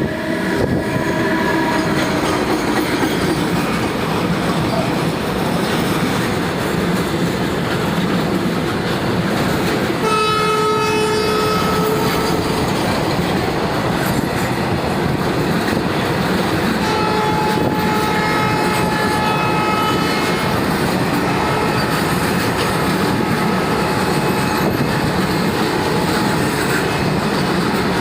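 WAG-12B electric freight locomotive 60067 accelerating with its train, a steady loud running noise of wheels on rail throughout. Its horn sounds for about two seconds about ten seconds in, then twice more later, fainter and longer.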